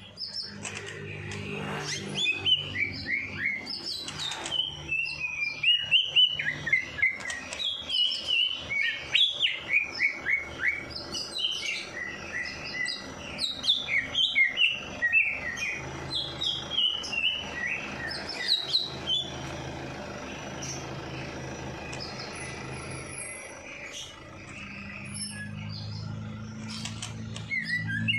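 A songbird singing a fast run of sharp chirps that sweep downward in pitch, loudest and busiest through the first two-thirds, then thinning out before a few more notes near the end.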